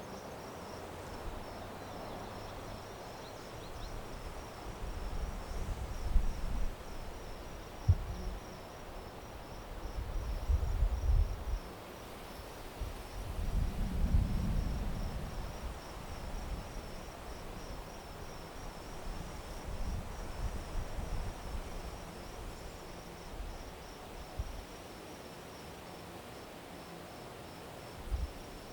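Crickets chirping on and on in a steady, evenly pulsing high trill, with irregular low rumbles swelling and fading at times and a single sharp click about eight seconds in.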